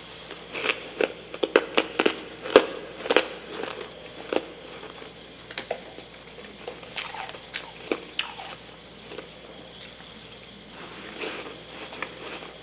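Close-miked chewing of soft freezer frost mixed with humidifier frost, making crisp crunches and crackles. They come thick and fast for the first few seconds, then thin out to scattered crunches.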